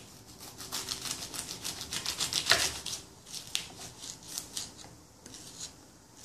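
Kitchen knife sawing through the butt end of a microwaved ear of corn in its husk: a fast run of crisp rasping strokes for about three seconds, then a few slower ones.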